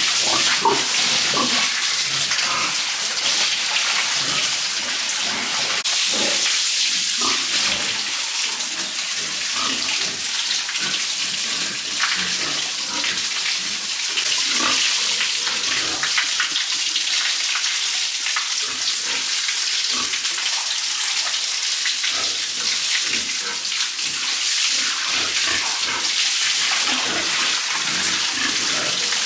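Water spraying and splashing steadily, as from a hose washing down a surface, with small irregular splashes through it.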